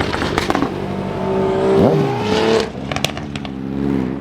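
Car engine revving, its pitch climbing steeply until it cuts off about two and a half seconds in, with a few sharp pops just after. Other engines are running at the same time.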